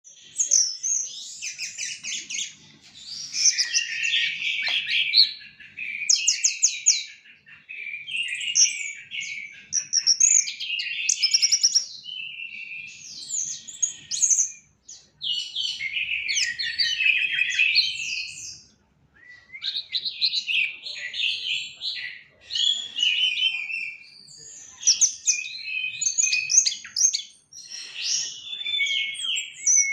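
A songbird singing a long, varied song of rapid whistles, trills and chirps, delivered in phrases with brief pauses.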